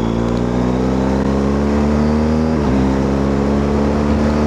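BMW R1250GS boxer-twin motorcycle engine pulling under way, its note rising slowly, with a brief dip in pitch about two and a half seconds in, as at a gear change.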